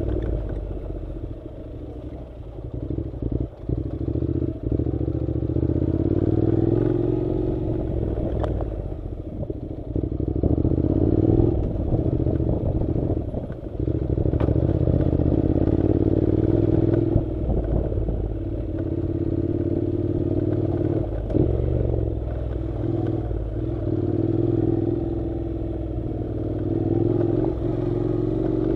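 Honda NC700's 670 cc parallel-twin engine running as the motorcycle rides a rough dirt road, with rattles and knocks from the bumpy track.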